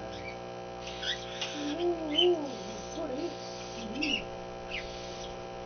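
Cockatiels giving short, high chirps about once a second over the steady electrical hum of an aquarium.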